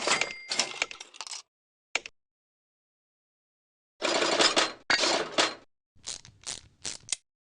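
Metal clanking and rattling in short bursts: a clatter at the start, a single clink near two seconds, then a run of clanks from about four seconds on, with dead silence between them.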